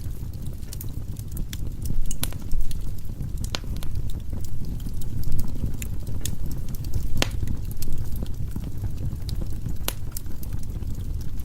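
Firewood burning in a fireplace: a steady low rumble of the flames with irregular sharp crackles and pops of the burning logs.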